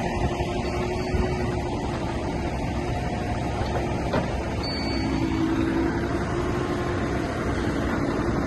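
Heavy diesel engine of earthmoving machinery running steadily, with a faint knock about four seconds in.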